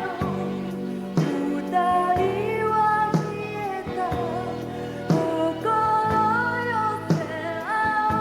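Live Japanese pop band performing a song, with a woman singing the lead melody over a steady drum beat.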